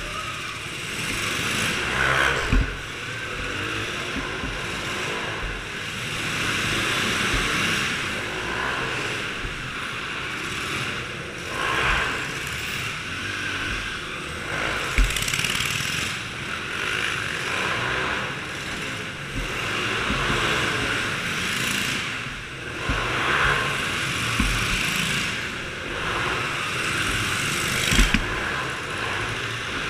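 Small-engine motor vehicles running, the engine sound swelling and fading every few seconds, with a few sharp low thumps.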